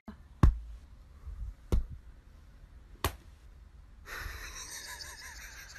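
Three short sharp taps, about a second and a half apart, then a faint steady hiss.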